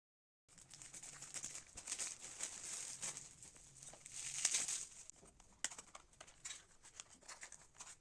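Packaging being handled: irregular crinkling and tearing with many small sharp clicks, loudest in two spells about two seconds and four and a half seconds in.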